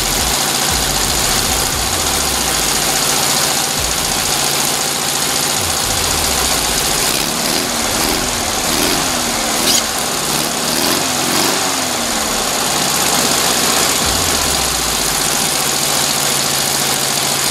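Air-cooled flat-four VW engine of a 1963 dune buggy running steadily on its own, newly revived with new fuel lines and a cleaned carburetor. Its pitch rises and falls for a few seconds in the middle, with one short sharp knock just under ten seconds in.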